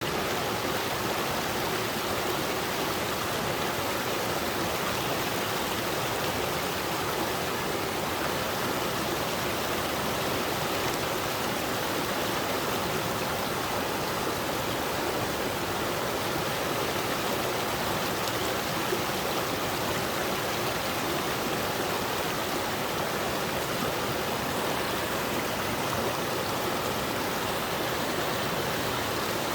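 Waterfall in a mountain valley stream: a steady, unbroken rush of falling and flowing water.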